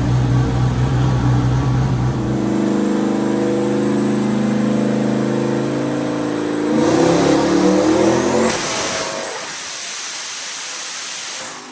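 Turbocharged small-block Ford V8 making a wide-open-throttle dyno pull: the engine holds low at first, then climbs steadily through the revs for about six seconds. About eight and a half seconds in, the throttle closes and the engine note drops away into a fading rush of air and the rollers spinning down. The tuner notes a little surge from the boost control still in the pull.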